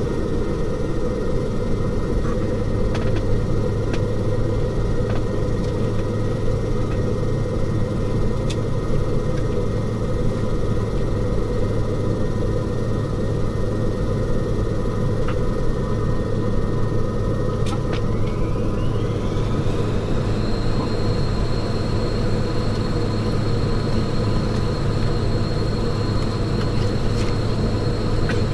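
Saab 340 turboprop engine and propeller heard from inside the cabin beside the propeller: a steady low drone with a thin high whine that rises in pitch about 18 seconds in and then holds.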